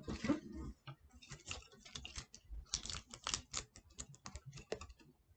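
Irregular crinkling and crackling of material being crumpled by hand into a small ball.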